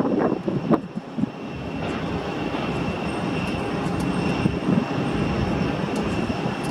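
Jet airliner's engines running, a steady rush with a high whine held on top. There is irregular buffeting in the first second.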